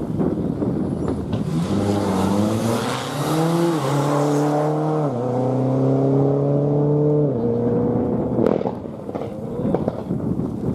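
Four-wheel-drive rally car accelerating hard, its engine note climbing and dropping back twice through quick upshifts before lifting off, followed by a sharp crack.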